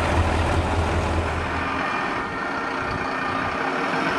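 Fire trucks driving past: a low engine rumble that fades out about two seconds in, over steady road noise.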